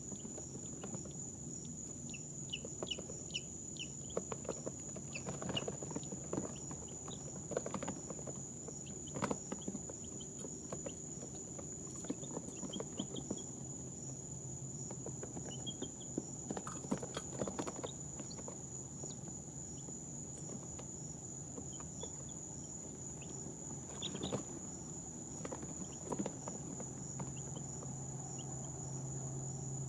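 Two-day-old chicks peeping now and then in short, high chirps, among scattered small clicks and scratches of them moving about.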